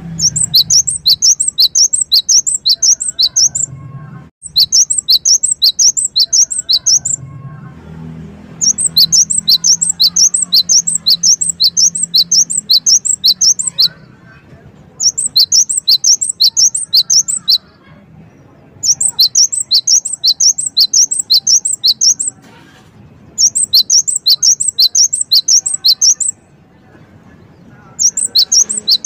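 Gelatik wingko (cinereous tit) singing in loud bouts of rapid, evenly repeated high notes, about five a second. Each bout lasts a few seconds and is broken by a short pause, seven bouts in all.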